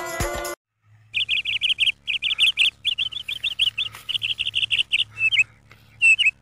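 A small bird singing in bursts of rapid high chirps, each burst a quick run of notes lasting under a second, the bursts coming shorter and more spaced out toward the end. A faint steady low hum lies underneath, and the tail of a music jingle cuts off just before the birdsong begins.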